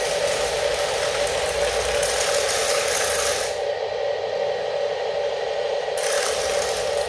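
Small electric gear motors of remote-control toy construction machines running with a steady whine and plastic gear rattle. A harsher grinding layer sits on top for about the first three and a half seconds and comes back about six seconds in.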